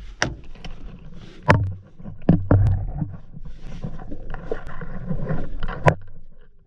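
A few sharp clicks and clunks with rustling and low thuds between them, as a person gets out of a vehicle.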